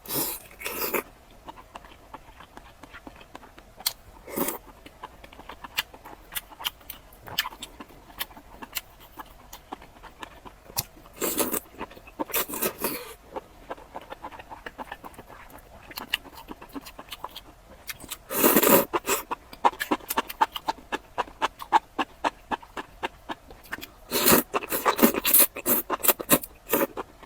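Close-miked eating of spicy skewers in chili oil: a steady run of quick, wet mouth clicks from chewing, broken by several louder, noisier bursts lasting under a second each.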